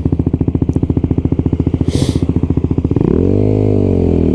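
Single-cylinder engine of a Lexmoto LXR 125 SE motorcycle with an aftermarket exhaust, idling with an even, fast thudding beat. About three seconds in the revs rise and fall as the bike pulls away, and the sound becomes a steady drone.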